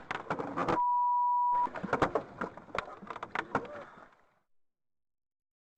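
A single steady censor bleep, about a second long, near the start, blanking out everything else while it sounds; clattering, knocking noise runs either side of it, and all sound cuts out to dead silence about four and a half seconds in.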